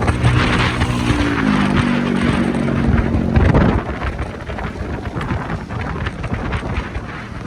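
A motorcycle ride: an engine's steady note steps down in pitch about a second and a half in and fades out just before four seconds, leaving wind rushing on the microphone.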